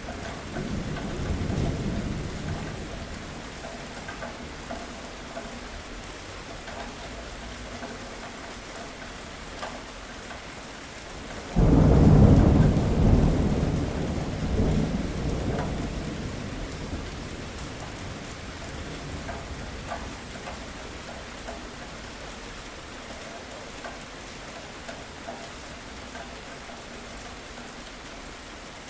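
Steady rain falling, with a low roll of thunder in the first few seconds. About twelve seconds in comes a sudden loud thunderclap that rumbles away over several seconds.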